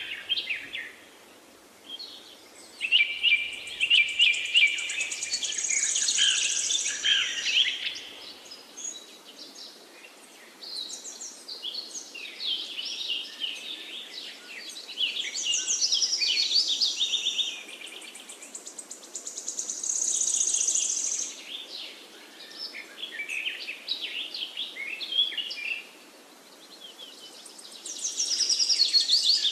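Forest birdsong: several songbirds singing in overlapping bursts of rapid chirps and trills, coming in waves every few seconds over a faint steady hiss.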